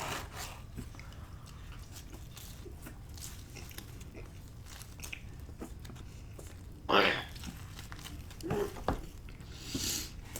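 Close-miked chewing and biting of pizza, with a louder crunchy bite about seven seconds in and a shorter one a second and a half later.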